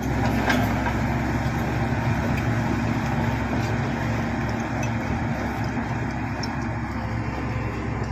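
Shantui SD16 crawler bulldozer's diesel engine running steadily.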